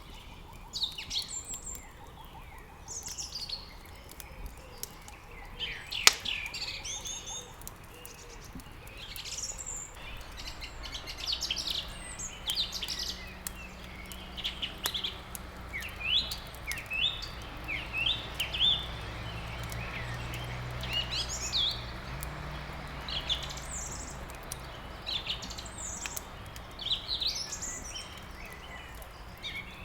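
Many small birds chirping and twittering over the crackle of a wood fire, with one sharp pop about six seconds in. A low steady hum joins about ten seconds in.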